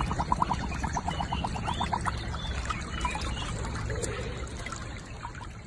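A husky lapping water, about five quick laps a second, stopping about two seconds in, over the steady trickle of a shallow stream; the sound fades out near the end.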